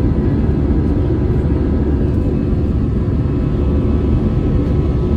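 Airplane engine and airflow noise heard inside the passenger cabin: a steady, loud rumble with a faint steady whine above it.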